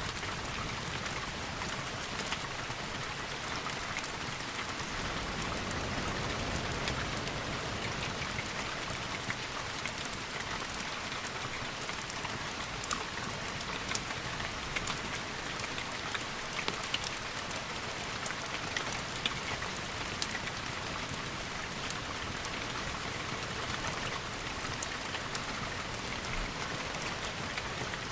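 Steady rain, an even hiss, with many scattered sharp ticks of drops striking a surface.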